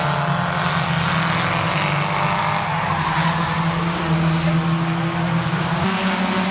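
Stock car engines running steadily at speed around an oval race track, the engine note stepping slightly higher near the end.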